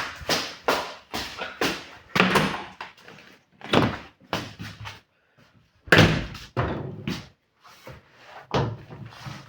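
A rapid, uneven series of knocks and bangs, well over a dozen, each dying away quickly, with a short lull about halfway through.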